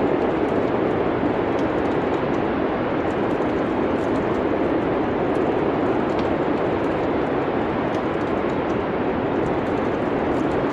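Steady, even noise of a winter-storm ambience, wind-like, with faint, scattered crackles of a wood fire throughout.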